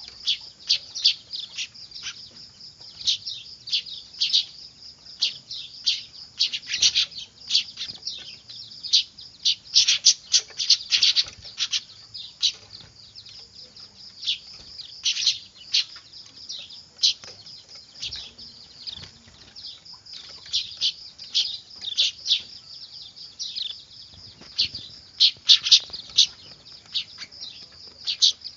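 Weaver bird chicks calling noisily: a dense, irregular stream of short, high chirps, many overlapping, with busier clusters around ten seconds in and again near the end.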